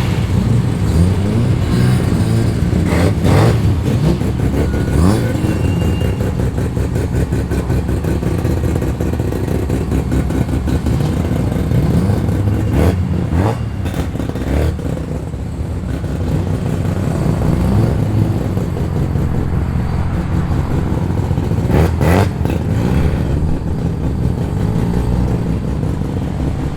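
Loud performance car engines rumbling as the cars roll slowly past, with a few brief revs.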